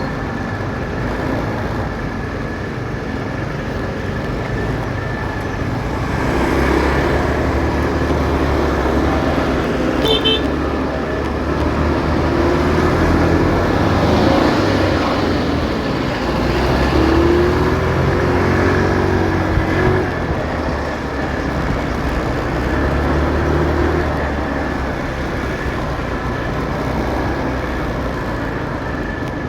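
Motorcycle engine running in city traffic amid road noise. The engine note swells and changes pitch, as when speeding up and slowing, from about six seconds in until about twenty-four seconds in. A brief high beeping comes about ten seconds in.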